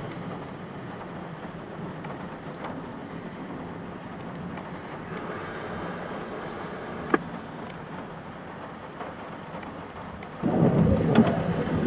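Thunderstorm: steady rain hiss, a single sharp crack about seven seconds in, then a loud burst of thunder with deep low rumble near the end.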